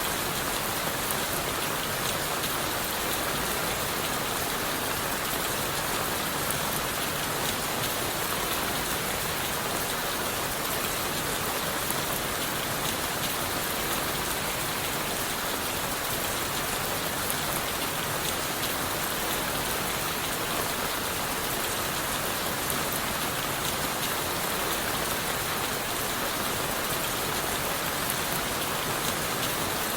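Steady rain falling on leaves, wood and the forest floor: a continuous even hiss with many fine drop patters.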